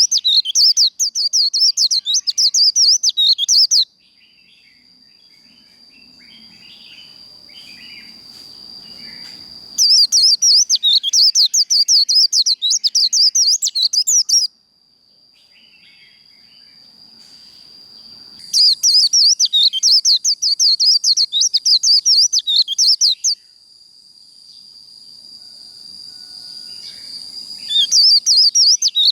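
White-eye (vành khuyên) singing its rapid, chattering 'líu' song in loud bouts of about four to five seconds, three full bouts and a fourth starting near the end, with quieter pauses between. A thin steady high tone carries on through the pauses.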